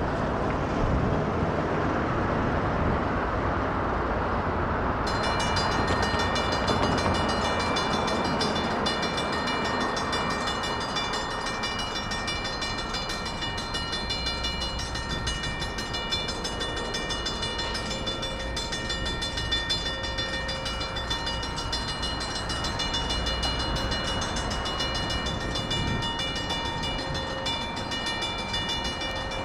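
Railroad crossing warning bells start ringing suddenly about five seconds in and keep ringing steadily, a cluster of high metallic tones, over a low rumble.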